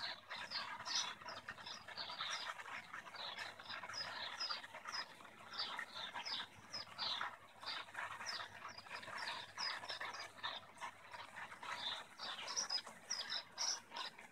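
Small birds chirping in the trees: a dense, continuous chorus of short, high chirps, several a second.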